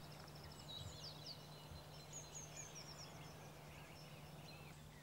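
Faint birdsong of small birds: quick high chirps and short falling whistles, over a steady low hum.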